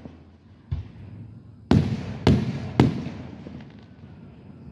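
Aerial firework shells bursting: a lighter bang about three-quarters of a second in, then three loud booms about half a second apart, each with an echoing tail.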